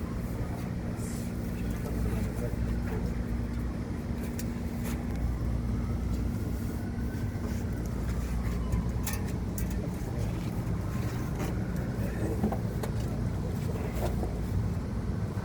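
Steady low mechanical hum with scattered light clicks.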